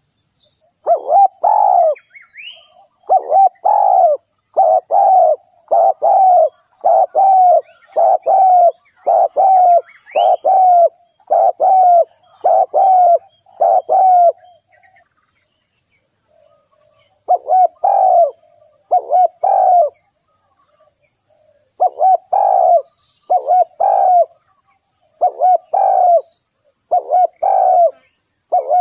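Spotted dove cooing, the repeated rolling coo of a calling male, about one phrase a second. The calls pause for two or three seconds about halfway through, then start again.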